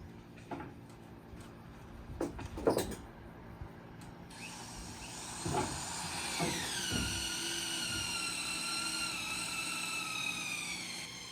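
A few wooden knocks, then a power tool's electric motor whines high, its pitch falling and then holding steady.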